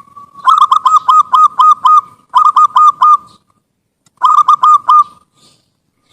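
Zebra dove (perkutut) cooing: a held note runs into a rapid series of short coo notes about a second in. Two shorter runs follow, with pauses between them.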